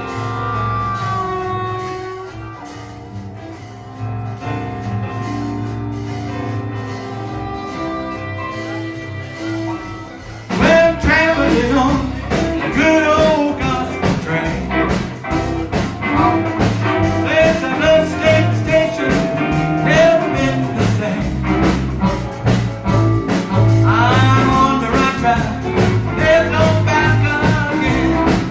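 A band playing a blues-style song with guitar. A quieter instrumental passage gives way, about ten seconds in, to a sudden louder full-band section with a singing voice.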